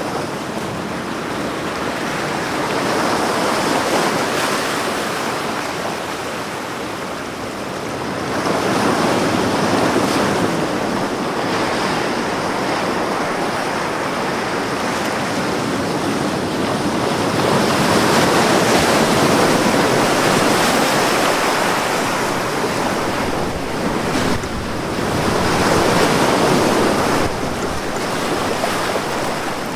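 Ocean waves breaking on a beach, a continuous surf wash that swells and eases as successive waves come in, with the biggest swells about four, ten, nineteen and twenty-six seconds in.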